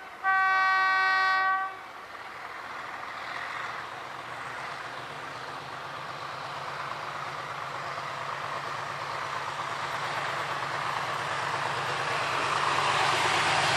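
Diesel locomotive horn sounding one chord blast of about a second and a half, cutting off early on. Then the locomotive's engine and rail noise, growing steadily louder.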